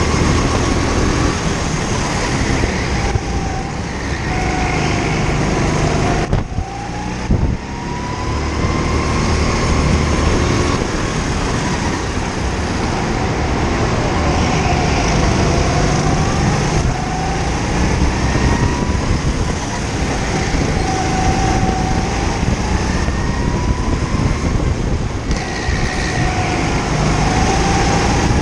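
Go-kart engine heard from onboard, its pitch rising under acceleration and falling as it slows, over and over, with a brief drop in level about six seconds in.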